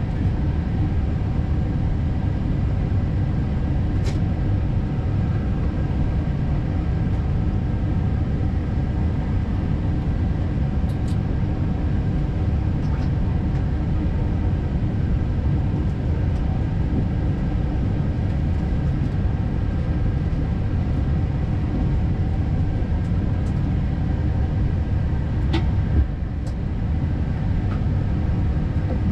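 Steady hum and rush inside a parked Airbus A320neo cockpit, with a few faint clicks. The sound dips briefly just after a click near the end.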